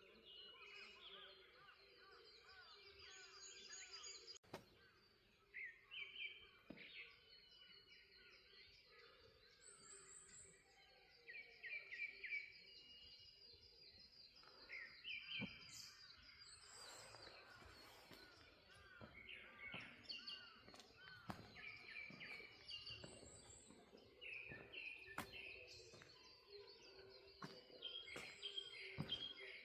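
Morning birdsong: several birds chirping and trilling in repeated short phrases, overlapping one another.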